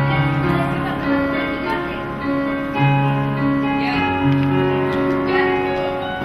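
Slow instrumental accompaniment on a keyboard: sustained chords over low bass notes that change every second or two, with no singing.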